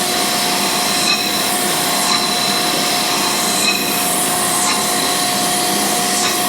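Cam grinder's abrasive wheel grinding a camshaft lobe on a cleanup pass, a steady hissing grind over the machine's steady hum. The grind swells about once a second.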